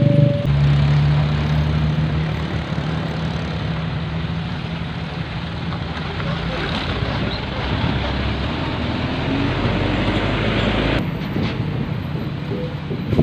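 A large road vehicle's engine running steadily with road noise, with an abrupt change in the sound about eleven seconds in.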